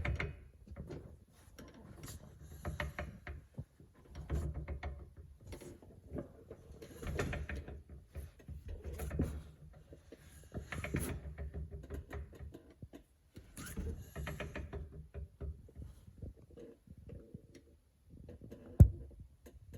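Rear axle shaft and hub of a 2007 Saturn VUE being rotated with the wheels off the ground, giving repeated uneven bursts of grinding, clicking mechanical noise, with one sharp click near the end. This noise is traced to a faulty left rear axle, the source of the car's loud humming and intermittent rattle.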